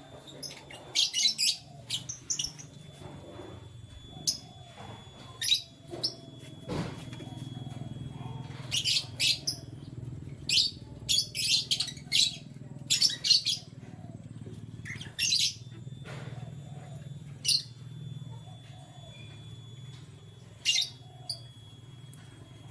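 Canaries chirping in short, quick clusters of high calls, the densest run about nine to thirteen seconds in, over a steady low hum.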